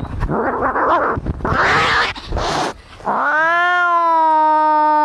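Cats fighting: harsh, noisy hissing and spitting for the first couple of seconds, then after a brief break one long yowl that rises and then holds steady from about three seconds in.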